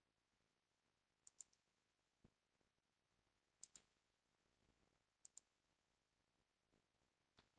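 Near silence broken by a handful of faint, sharp clicks, mostly in quick pairs, with one soft low knock.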